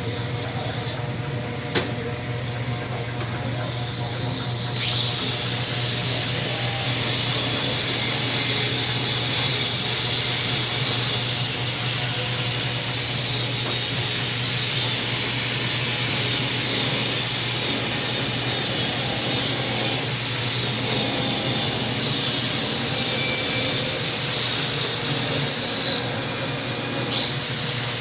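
Electric power tool running with a steady hum and a high whine that comes up about five seconds in, wavers, dips briefly near the end and rises again.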